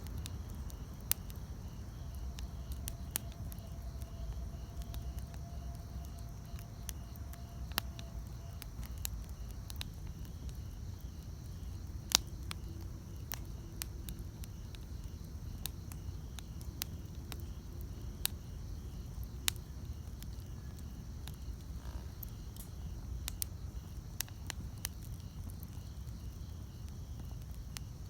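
Wood campfire burning with a low steady rumble and scattered sharp crackles and pops, one louder pop about twelve seconds in. Faint steady insect chirring sits in the background.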